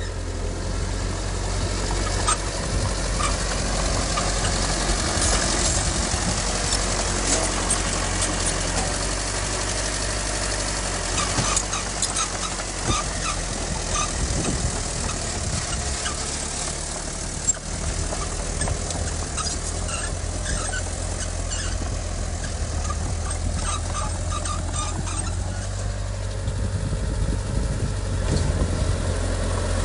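Heavy diesel earthmoving machinery running steadily, with the low drone of the engine under scattered metallic clanks and squeaks. There is one sharp knock a little past halfway.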